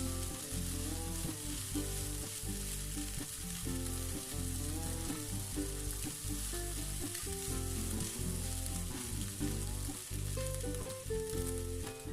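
Fried rice with chicken sizzling in a hot pan as it is stirred, a steady crackling hiss. A background music track with a steady bass line plays along with it.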